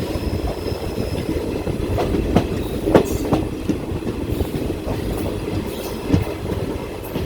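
Passenger train coach rolling along the track, heard from inside, with a steady low rumble and irregular sharp clicks of the wheels over rail joints.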